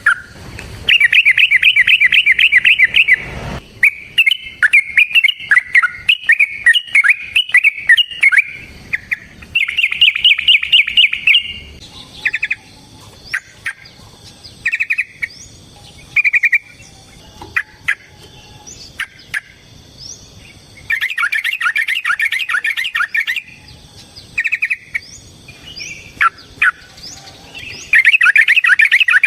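Yellow-vented bulbuls (trucukan) calling: several long, fast runs of rapid repeated notes, the 'ropel' fighting call, with shorter phrases and single notes between them. Thin rising whistles repeat higher up through the middle stretch.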